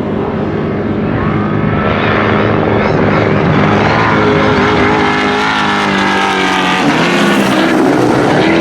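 Trophy truck engine running hard, its pitch climbing, dropping back and climbing again as the driver works the throttle.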